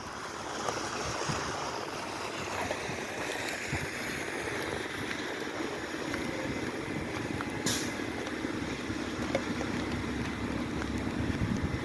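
Steady noise of a car driving on a wet road, heard from inside the cabin. One sharp click about eight seconds in.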